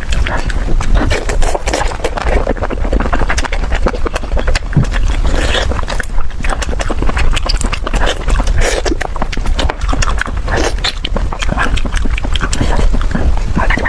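Close-miked eating of a chicken head: dense wet chewing, smacking and crunching sounds, many small clicks a second with louder crunches now and then.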